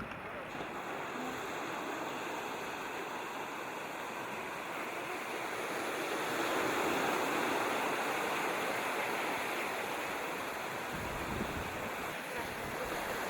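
Sea waves washing onto the shore in a steady surf noise that swells about halfway through, with a low rumble of wind on the microphone near the end.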